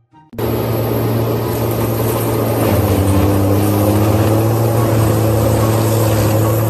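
Heavy 500-horsepower timber-clearing machine running hard: a loud, steady engine drone with a wide rushing noise over it, cutting in suddenly just after the start.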